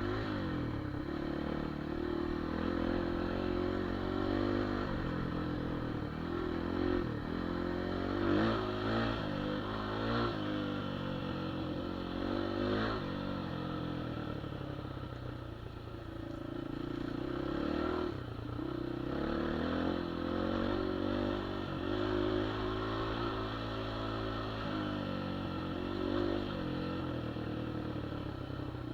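Geon Dakar 250 Twincam single-cylinder enduro motorcycle riding off-road, its engine revving up and falling back again and again as the throttle is worked, with a brief easing off about halfway through.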